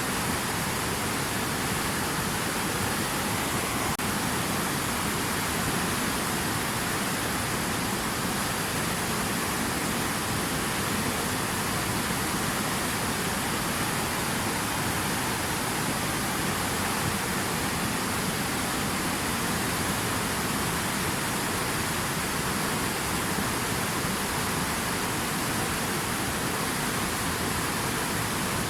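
Steady rushing water, an even, unbroken wash of sound with no changes.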